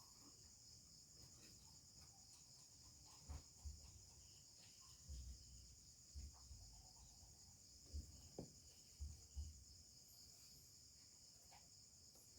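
Near silence with crickets chirping faintly and steadily in the background, and a handful of soft, low knocks scattered through it.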